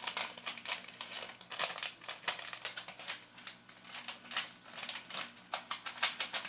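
Plastic wafer-biscuit packet crinkling and rustling, with irregular crackles throughout, as wafers are pulled out of it.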